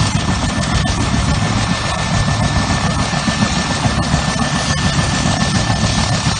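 Bell 210 (civil UH-1) helicopter running close by: the heavy chop of its two-bladed main rotor with the steady high whine of its turboshaft engine over it.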